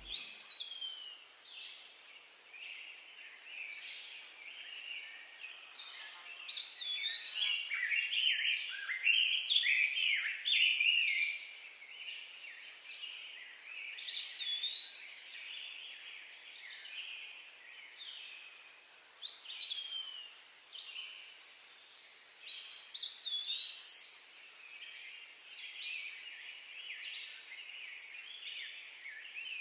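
Woodland birdsong: several birds singing in overlapping phrases of chirps, trills and whistles, over a faint outdoor hiss. A high, rising run of notes comes back every ten seconds or so.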